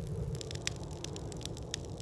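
Small campfire crackling, with irregular sharp pops over a steady low rumble.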